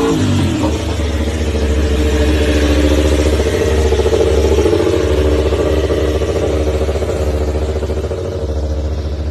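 Racing motorcycle engine dropping from high revs to a low, pulsing, lumpy running note that holds for the rest of the time.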